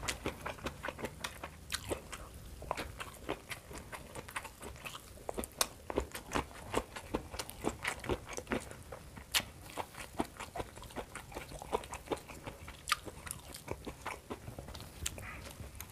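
Close-miked chewing and crunching of grilled petai (stink beans) with raw vegetables, with irregular moist clicks and crunches a few times a second.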